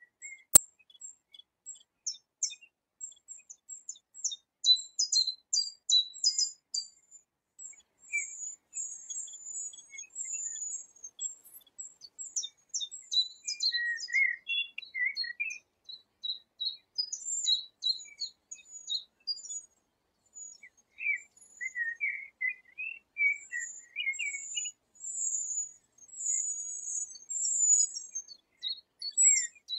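Eurasian penduline tit nestlings begging from the hanging nest: quick series of high, thin chirps, with a few lower calls mixed in. One sharp click about half a second in.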